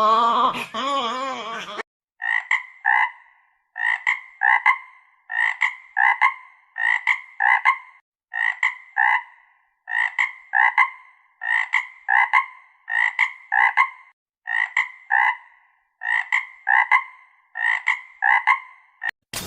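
A frog calling over and over: a two-note croak repeated about every one and a half seconds. Before the frog starts, a different animal's wavering, pitched call ends about two seconds in.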